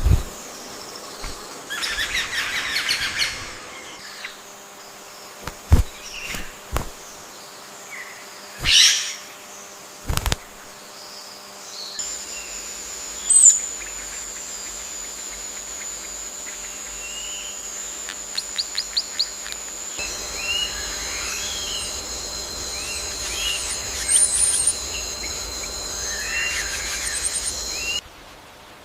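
Rainforest ambience of bird chirps and calls. In the first part there are a few sharp clicks and knocks. In the later part, a steady high-pitched insect drone runs under the scattered chirps and cuts off abruptly near the end.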